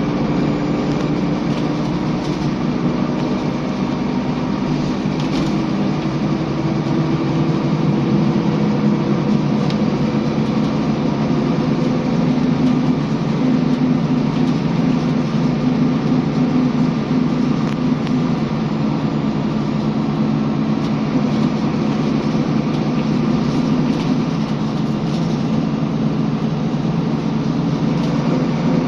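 A Scania L94UB bus running under way: a steady engine and drivetrain drone with a few tones that drift slightly in pitch.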